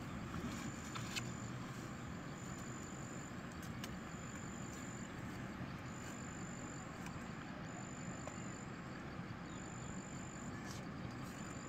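Outdoor ambience: an insect calling in short, even, high-pitched pulses, roughly one a second, over a steady low rush with a few faint clicks.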